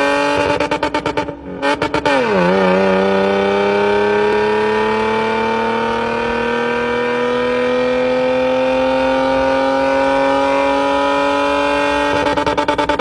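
Car engine accelerating in one long pull, its pitch climbing slowly and steadily for about ten seconds after a brief dip, with a pulsing beat at the start and again near the end.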